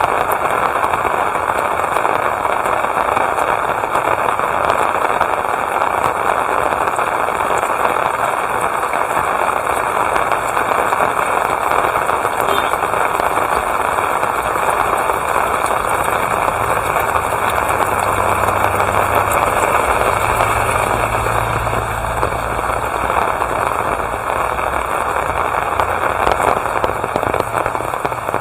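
Steady rain falling, a dense crackling patter without a break. A faint low hum, like a distant engine, joins in about halfway and fades a few seconds before the end.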